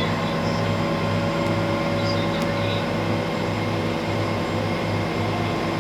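Vehicle engine running steadily, a low hum that pulses about twice a second under a few steady higher tones.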